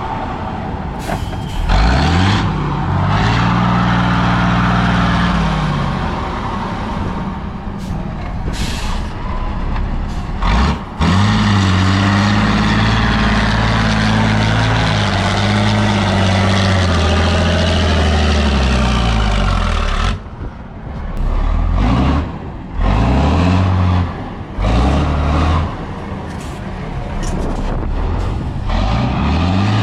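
Heavy multi-axle off-road trial truck engines running under load, revving up and dropping back again and again. There are sudden breaks and jumps in the sound about a third of the way in and again past the middle.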